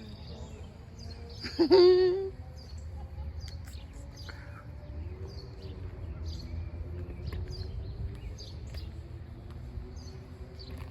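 Small birds chirping repeatedly with short, high calls, over a steady low outdoor rumble. About two seconds in, a brief, loud, wavering pitched call stands out above the rest.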